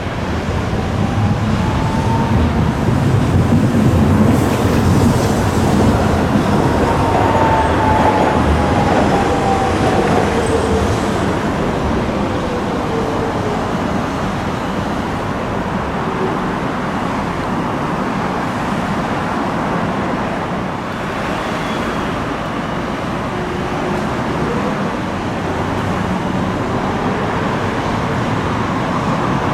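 Hiroden streetcar running past in street traffic, its motor whine rising in pitch over the first few seconds and then falling away, loudest in the first third.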